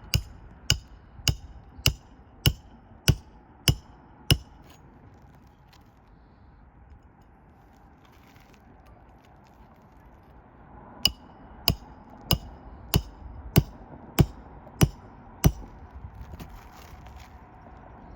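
Hammer driving roofing nails into a new 3-tab shingle: two runs of about eight steady, evenly paced strikes, each with a short metallic ring, separated by a pause of about six seconds.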